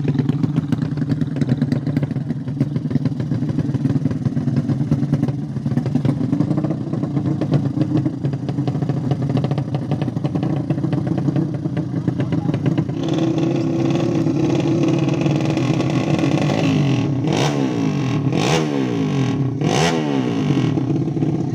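A 200cc motorcycle engine idling low and steady. From about two-thirds of the way through it runs louder, and near the end the pitch sweeps up and down in a few quick throttle blips.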